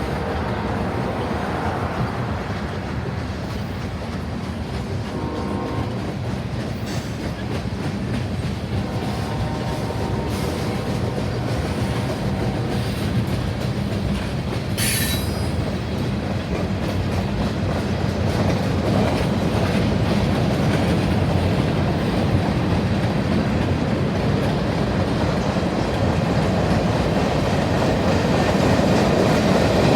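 Freight train rolling past: a steady rumble and clatter of wheels over the rails, with faint wheel squeal in places and one short, high-pitched screech about halfway through. It grows slowly louder toward the end.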